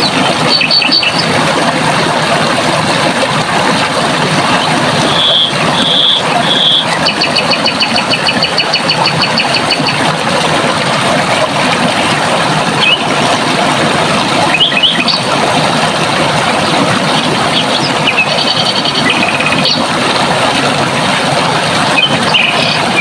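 Steady rush of running water, with songbirds calling over it: a few short whistled notes, a rapid trill lasting about three seconds, and quick upward-sweeping chirps.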